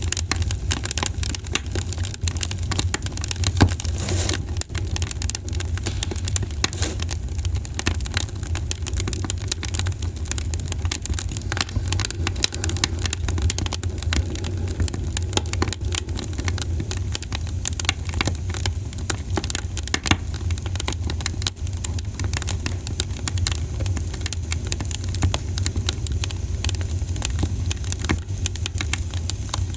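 Wood campfire crackling: a dense, irregular run of small pops and snaps over a steady low rumble, with a sharper pop about three and a half seconds in.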